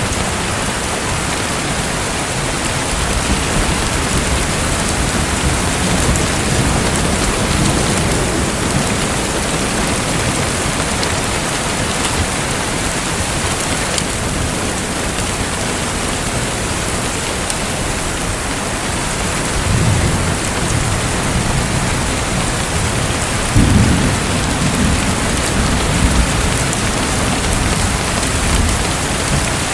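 Steady, even hiss of rushing water like heavy rain, with deep low rumbles swelling up about twenty seconds in and again a few seconds later.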